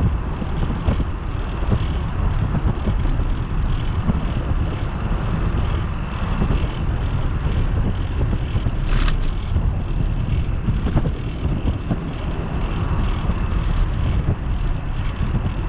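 Wind buffeting the microphone of a camera mounted on a moving bicycle, a steady low rumble mixed with the bike's road and tyre noise. A short high-pitched sound cuts in briefly about halfway through.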